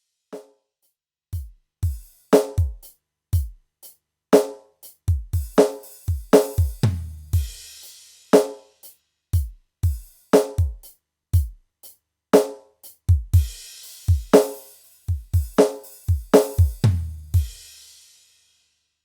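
Dangdut koplo kendang drumming in a broken, syncopated pattern. Deep booming bass strokes alternate with ringing higher-pitched strokes, with cymbal washes over two stretches. It stops about a second before the end.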